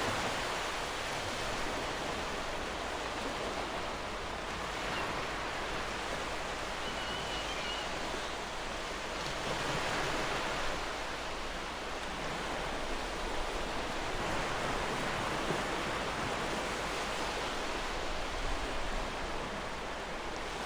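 Gentle ocean waves washing onto a shore, a steady hiss of surf that swells and eases slowly. A faint bird chirp comes through briefly about a third of the way in.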